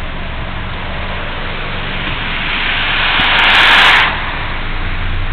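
Road and engine noise inside a moving car, a steady low hum under a hiss. A louder rushing hiss builds over a couple of seconds and cuts off suddenly about four seconds in.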